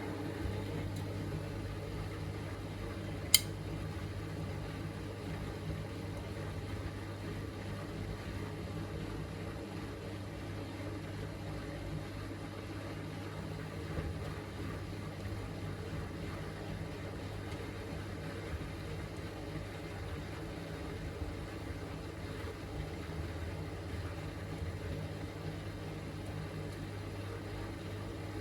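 Miele Navitronic W3985 washing machine draining after its final rinse: a steady low hum, with one sharp click about three seconds in.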